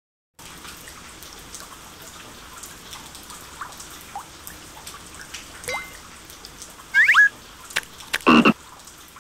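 Cartoon sound effects: trickling, dripping water ambience after a half-second of silence, with small scattered chirps, a quick pair of rising squeaks about seven seconds in, and a louder brief pitched cry a second later.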